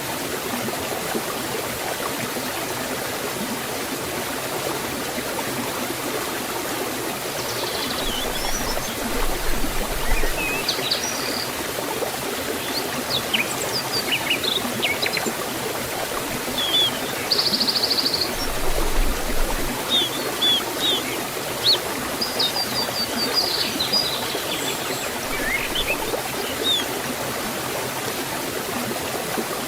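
Waterfall water flowing steadily in an even rush. Birds chirp and trill over it from several seconds in until near the end.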